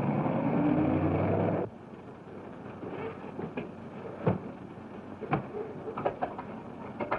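An early-1930s car engine running as the car drives, with a low hum that rises slightly, cutting off abruptly after about a second and a half. A quieter stretch follows with a few scattered sharp knocks.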